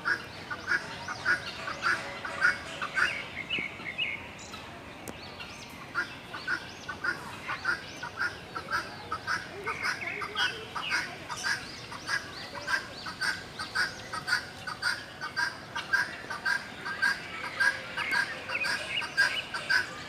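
Aviary birds calling: a long run of short calls repeated two or three times a second, pausing briefly about four seconds in, then starting again.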